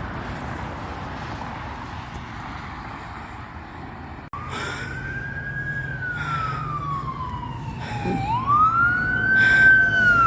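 Emergency vehicle siren wailing: its pitch rises, slowly falls, then sweeps quickly up again and starts to fall, over a low steady engine hum. Before it, about four seconds of steady rushing outdoor noise that cuts off abruptly.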